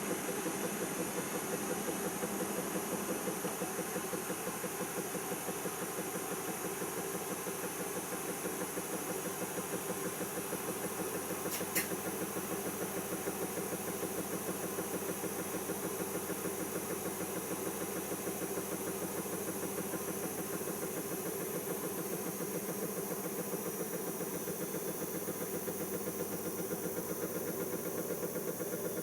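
Siemens iQ washing machine's drum spinning steadily in the spin after the main wash, a continuous motor hum and whine with no pauses. A single short click about twelve seconds in.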